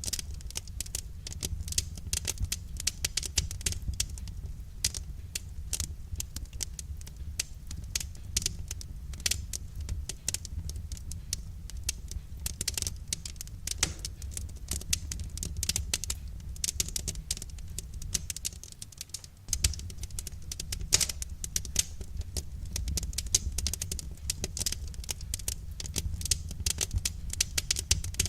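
Wood fire crackling: dense, irregular pops and snaps over a low steady rumble, easing briefly about two-thirds of the way through.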